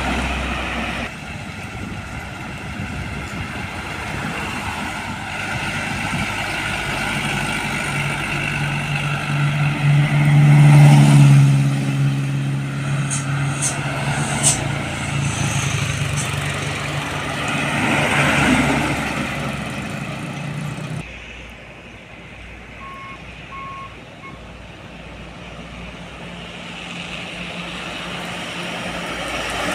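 Heavy trucks passing on a road: diesel engine drone that swells to a loud pass about ten seconds in, then fades. After an abrupt cut, quieter traffic follows, with three short high beeps a couple of seconds later.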